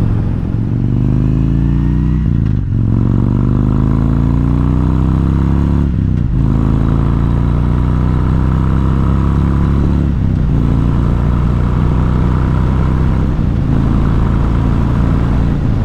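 Harley-Davidson Road King's V-twin engine pulling through the gears under way: its pitch climbs, then drops sharply at each of three upshifts a few seconds apart, before running at a steadier pitch near the end.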